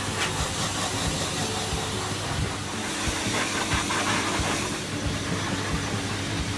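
K9000 automated dog wash machine running: a steady hiss from its hose, with a low steady hum from the machine underneath.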